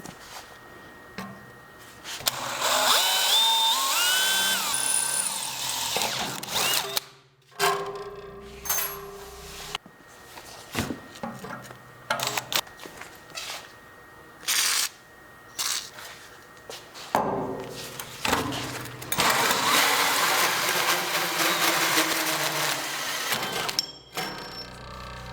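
A power tool running in two long bursts, its whine rising in pitch during the first, with scattered knocks and clatter of work in between.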